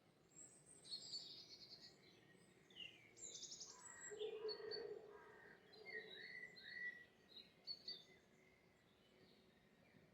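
Faint songbirds chirping and trilling, with short calls and quick phrases scattered throughout over a quiet background hiss.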